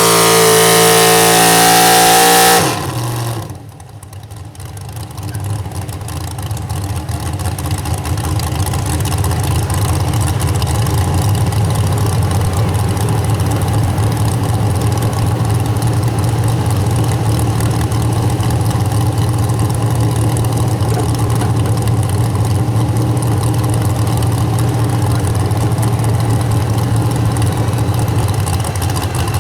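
Super stock 4x4 pulling truck's engine at full throttle, cut off suddenly about two and a half seconds in, the typical end of a pull run. After a brief lull, an engine settles into a steady idle for the rest of the time.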